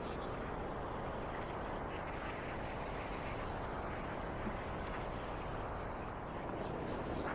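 Steady city street noise of traffic, heard from a bicycle riding along a downtown bike lane. Faint high squeaks and ticks come in near the end.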